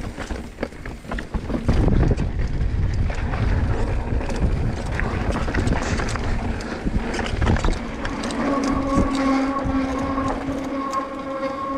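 Riding noise from a mountain bike on a descent: wind on the microphone with many knocks and clatter from the bike. From about eight seconds in, a steady pitched hum with several overtones sets in and holds.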